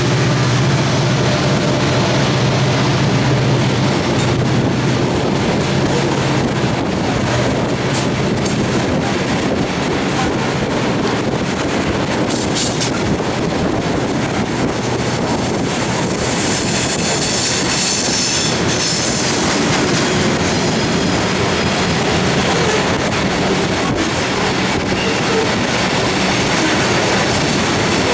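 Loaded coal train cars rolling past on steel rails, a steady loud rumble and clatter of wheels, with a high wheel squeal for a few seconds around the middle. A low engine drone fades out in the first few seconds.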